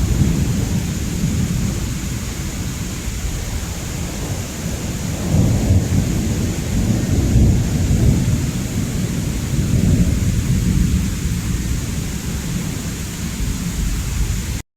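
Thunder rumbling low and long over steady rain. The rumble swells about five seconds in and again for several seconds after that, then everything cuts off suddenly near the end.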